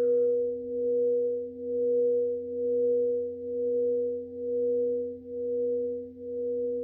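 Sound-bath singing bowl humming as a steady two-note tone, a low note and a stronger one about an octave above. Its loudness wavers in a slow pulse about once a second.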